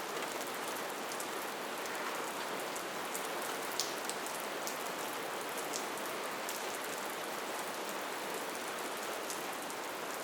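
Steady rainfall: an even hiss of rain with many individual drops pattering on a surface, a few louder drops standing out.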